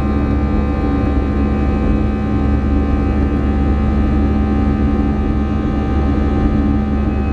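Airbus A320 cabin noise: jet engines and airflow making a steady low rumble, with a constant whine of several tones above it.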